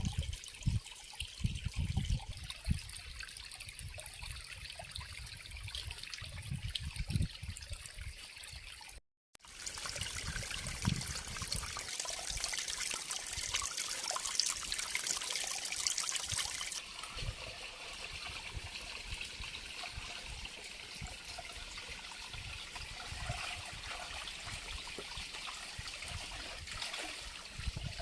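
Water trickling, with irregular low thumps; the sound cuts out for a moment about nine seconds in.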